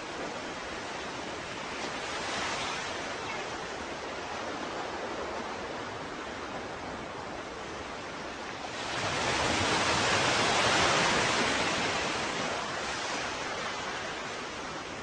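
Ocean waves washing on a shore over a steady background of surf, with a small wave breaking about two seconds in and a bigger one building and breaking about nine seconds in, then fading away.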